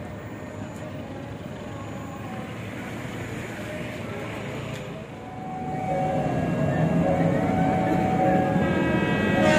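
Road traffic and motorcycle engines at a railway level crossing. About five seconds in, the sound changes to the low rumble of an approaching CC201 diesel-electric locomotive, with steady ringing warning tones over it that repeat.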